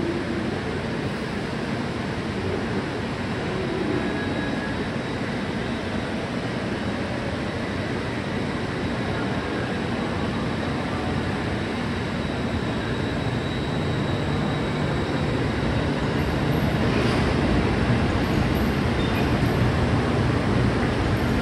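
JR Kyushu 811 series AC electric multiple unit pulling away and accelerating. Its steady running noise of wheels on rail grows louder over the second half as the cars pass close by.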